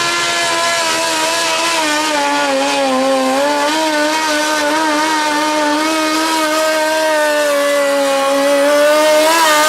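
Suzuki 1200 motorcycle engine in a modified lawn tractor, run at high revs under load while pulling the sled. The pitch is held high and wavers up and down, with a brief rise near the end.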